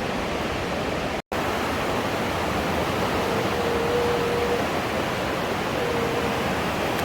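The Aare rushing through the narrow limestone gorge: a steady roar of fast, turbulent water. The sound cuts out completely for an instant a little over a second in, and a faint steady tone rises above the water twice in the second half.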